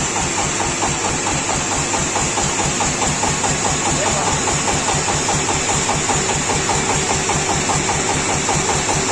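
Small engine of a homemade mini tractor idling steadily with an even, rhythmic pulse.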